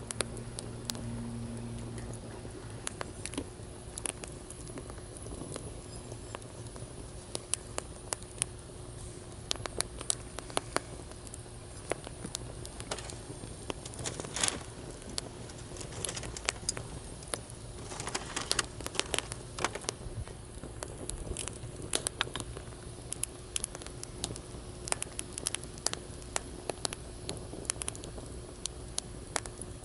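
Wood campfire in a fire stand crackling, with many sharp, irregular pops over a steady low background. A low hum under the first couple of seconds fades away.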